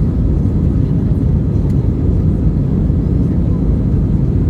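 Steady, loud rumble of engine and airflow noise inside the cabin of an Airbus A320 in flight, after takeoff.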